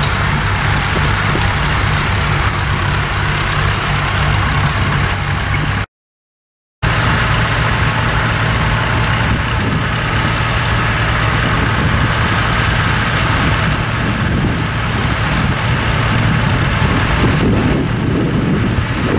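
Tractor engine running steadily. About six seconds in the sound drops out completely for about a second, then the engine carries on.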